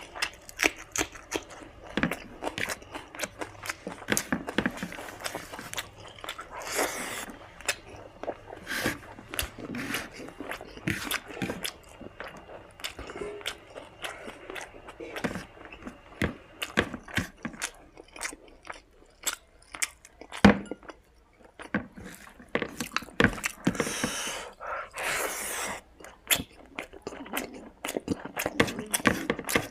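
Close-up eating sounds: wet chewing and lip smacks as mutton fat with rice and gravy is eaten, a steady run of irregular clicks, with a few longer breathy bursts, about seven seconds in and again near twenty-five seconds.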